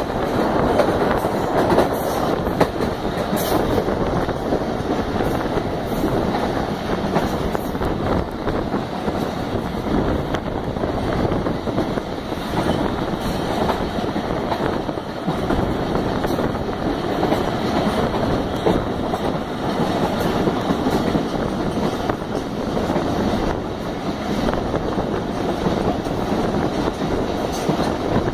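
A train running along the track, heard from aboard: the steady noise of the coach and its wheels on the rails, with no break in pace.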